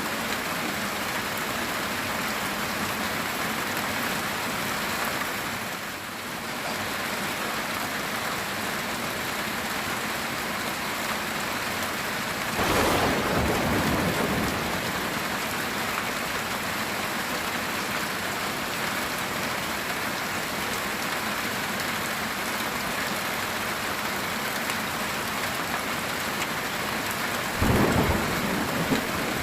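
Heavy rain falling steadily on a metal tin roof, with a sudden thunderclap about halfway through and another near the end.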